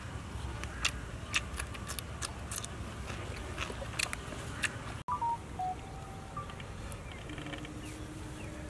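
Crisp crunching as a raw green stem is bitten and chewed close to the microphone: irregular sharp clicks, two or three a second, over a low outdoor rumble. After a brief dropout about five seconds in, the crunching stops and a few short whistled calls are heard over the same background.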